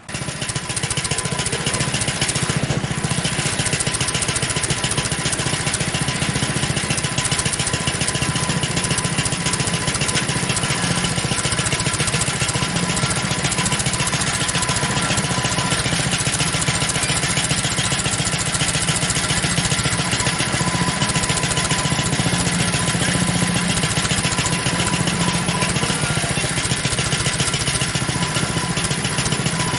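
Small petrol engine running steadily at constant speed, cutting in abruptly at the start.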